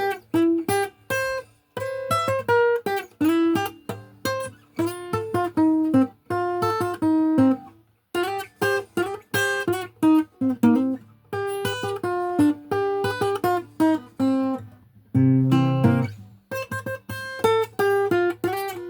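Acoustic guitar played alone, a quick run of single picked notes over a steady bass note, as an instrumental break in a country-blues song.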